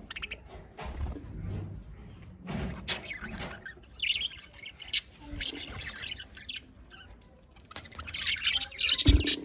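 Budgerigars chirping and squawking in short, scattered calls, turning into a dense run of warbling chatter near the end.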